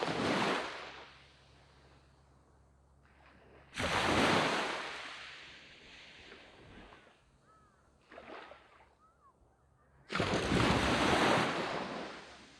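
Waves breaking on a sandy beach: three loud crashes of surf, one right at the start, one about four seconds in and one about ten seconds in. Each starts suddenly and hisses away as the water washes out, with a smaller wave between the last two.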